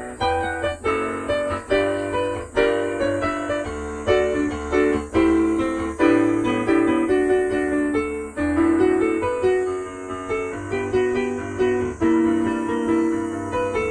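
Solo piano playing a lively pop-song arrangement: steady struck chords with a moving melody over a bass line. Cicadas drone steadily and faintly, high behind the piano.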